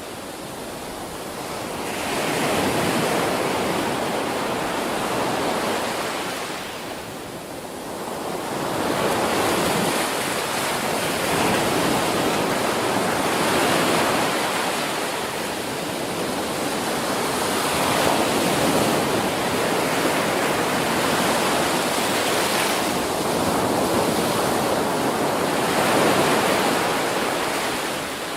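Ocean waves breaking on a beach: a continuous wash of surf that swells and eases every six to eight seconds.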